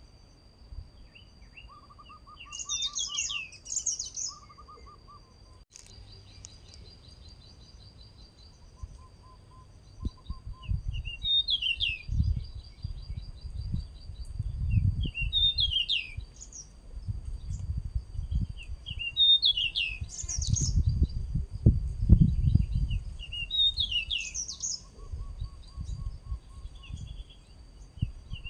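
Male pied bushchat singing: short, bright whistled phrases of falling notes, repeated every few seconds. A thin steady high tone runs underneath, and from about ten seconds in a low rumble comes and goes, louder than the song at its peaks.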